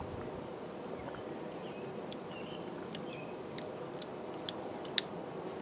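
A man sipping and swallowing a thick bird's nest drink: a few faint mouth clicks and swallowing sounds over a steady low background hum.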